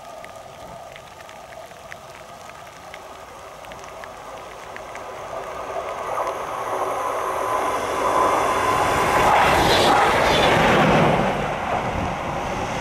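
A train approaching and passing close by. The rumble of its wheels on the rails builds over several seconds, is loudest about two-thirds of the way through with a falling pitch as it goes past, then eases off a little.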